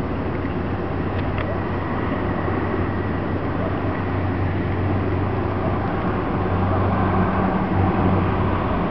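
Small ferry boat's engine running steadily, a low drone that swells slightly near the end.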